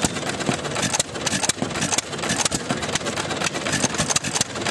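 A tractor engine idling, with irregular sharp knocks or pops over a steady running noise.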